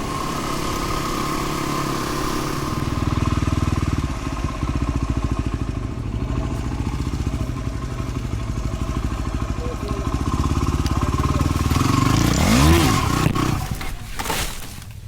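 Dual-sport motorcycle engine running with a steady low beat, then a sharp rev that rises and falls about twelve seconds in before the engine sound drops away near the end. The rev fits a rider hitting the throttle on landing after popping over a log, which he says is why he didn't make it.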